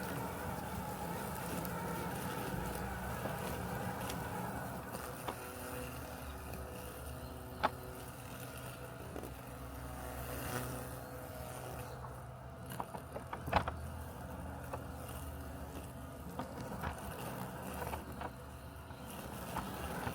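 Robotic lawn mower running with a steady low mechanical hum. A few sharp clicks cut through it, the loudest about eight and about fourteen seconds in.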